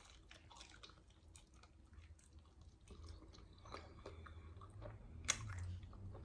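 Close-miked chewing of fried chicken: faint wet mouth sounds and small crunches, with one sharper crunch or click about five seconds in.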